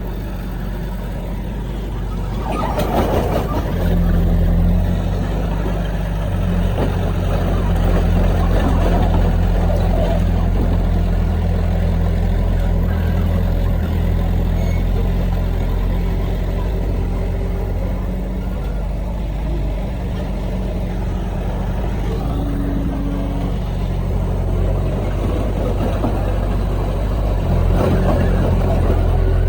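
Diesel engine of heavy earthmoving machinery running steadily at work, growing louder about three seconds in.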